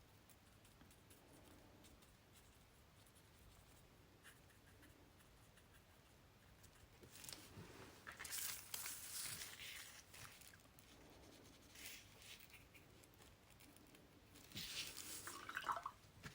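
Faint scratchy rustling of paper being worked by hand, in a few short spells: a longer one about seven seconds in, a brief one near twelve seconds, and another near the end.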